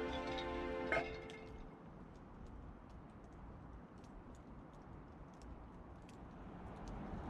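Background music ending about a second in, followed by the faint, scattered crackling of a wood campfire.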